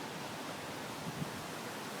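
Strong sustained wind, about 50 mph, blowing steadily as a broad hiss, with uneven low rumbling where gusts buffet the microphone.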